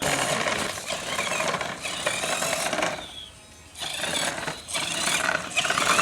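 Small motor of a mini toy tractor running while it pulls a soil-loaded trolley, with a rattling, buzzing sound. It drops off for about a second near the middle, then runs again.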